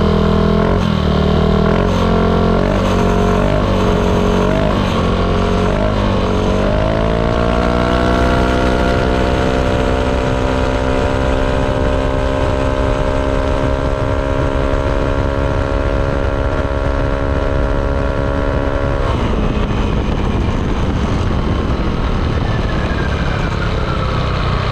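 Yamaha Aerox 155 scooter's single-cylinder engine through a ROB1 aftermarket exhaust, not very loud. For the first several seconds the engine note rises and falls with the throttle. Then it climbs and holds a steady high pitch until the throttle closes, about nineteen seconds in, and the note drops away.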